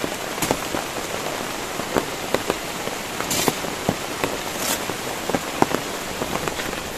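Steady rain, with many separate drops ticking sharply close by over the even hiss of the downpour, and two brief high hisses near the middle.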